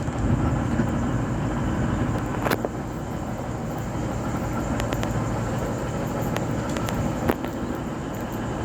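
Bombardier VLocity diesel multiple unit idling at the platform: a steady low drone, with a few scattered sharp clicks.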